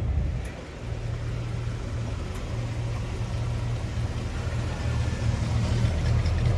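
Car engine idling, a steady low rumble that dips briefly under a second in.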